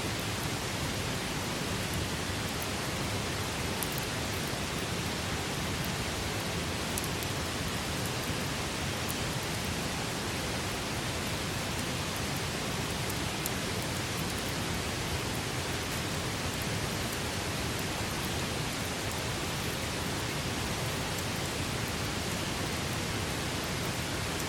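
Wood campfire burning: a steady rushing hiss with a few faint, sharp crackles.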